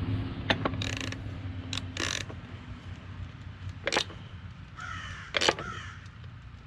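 Sharp metal clicks and scrapes of a wrench working the eccentric cam clamp bolts on a tractor's rear wheel rim, spaced irregularly. A steady low hum runs underneath for the first couple of seconds, and there is a brief squeak about five seconds in.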